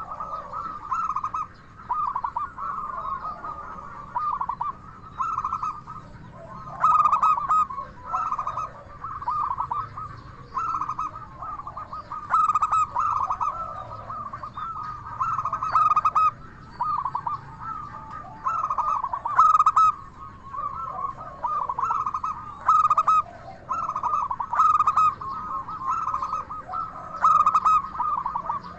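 Zebra dove (perkutut) cooing over and over, one short trilled phrase after another with brief gaps between.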